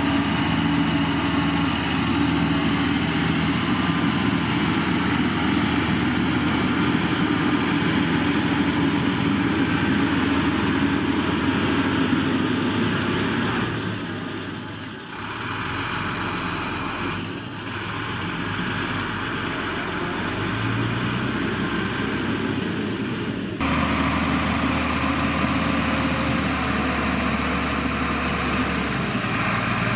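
Diesel engine of heavy earthmoving machinery running steadily. It dips in loudness about halfway through, then changes abruptly about two-thirds of the way in.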